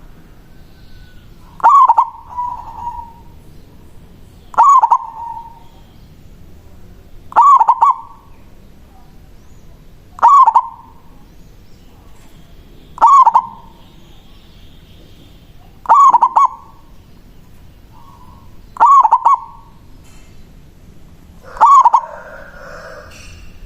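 Local zebra dove (perkutut) singing its cooing song, the manggung. It is a short burbling phrase repeated about every three seconds, eight times.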